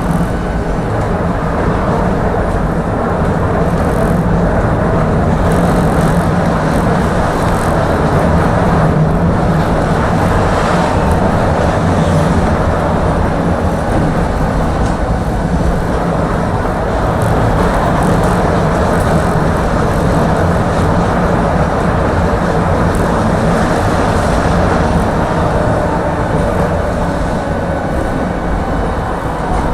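Tram car running steadily between stops, heard from inside the car: a continuous rumble of the running gear with a faint whine of the traction motor drifting in pitch.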